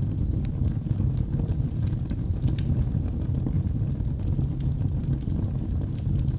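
Wood fire burning in a fireplace: a steady low rumble of flames with scattered, irregular sharp crackles and pops from the burning wood.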